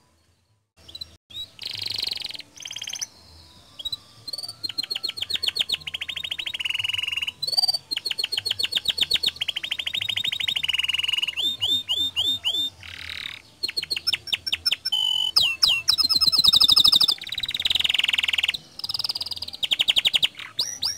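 Domestic canary singing energetically ('gacor'), with fast rolling trills and rapidly repeated chirped notes in phrase after phrase. It starts about a second in, after a brief silence.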